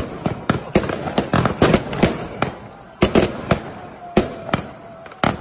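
Street fireworks and firecrackers going off in an irregular barrage of sharp bangs. The bangs come thick and fast for the first two seconds or so, then thin out to scattered single reports in the second half.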